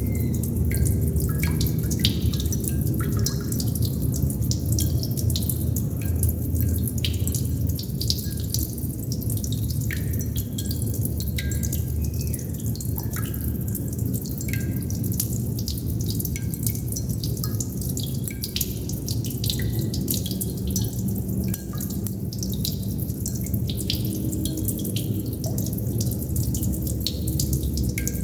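Water droplets dripping irregularly, many small plinks and ticks, over a steady low rushing background.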